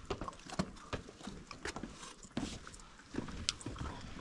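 Footsteps on rocky, gravelly ground: an irregular run of short clicks and scuffs, over a low rumble.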